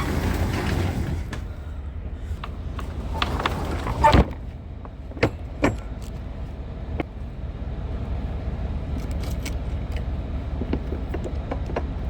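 Semi-truck's diesel engine idling low while a trailer is hooked up, with a loud metallic clank about four seconds in, then a few sharp clicks and scattered small knocks and rattles of metal hookup gear.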